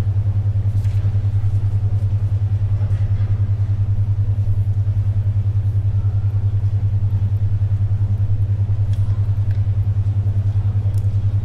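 A steady low hum pulsing about ten times a second: a 10.2 Hz alpha-wave brainwave beat tone. Under it, faint library ambience with occasional soft paper rustles and pencil scratches.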